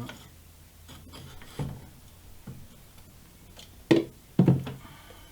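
A few knocks and clunks as the anodizing setup is handled: a light knock about one and a half seconds in, then two loud sharp knocks close together around four seconds in, over a faint steady low hum.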